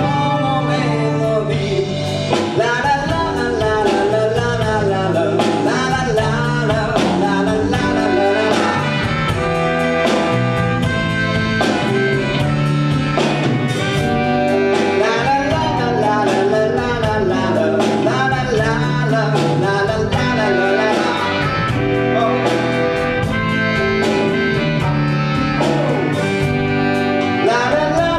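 Live band playing a song: a singer's wavering melody over steady drums, bass and guitar.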